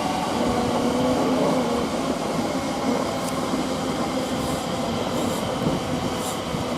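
Class 345 electric multiple unit running along the track: a steady rumble of wheels on rail, with a steady hum from the train for the first couple of seconds.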